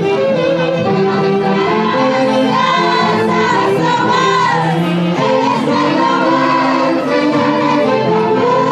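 Live music from a Peruvian festival orchestra (orquesta típica): a melody of long held notes with a slight vibrato over a steady accompaniment.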